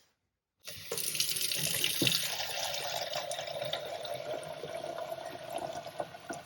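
Water from a faucet running steadily into the coffee maker's removable water reservoir, filling it. It starts about half a second in.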